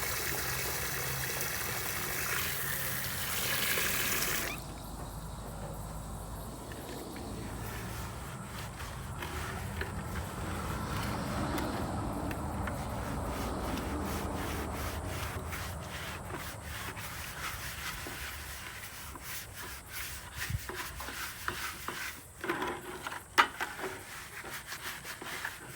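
Water from a hose running into a chicken water bucket, cutting off about four and a half seconds in, followed by the bucket being scrubbed by hand with bleach water: steady rubbing with scattered scrapes and knocks, busier near the end.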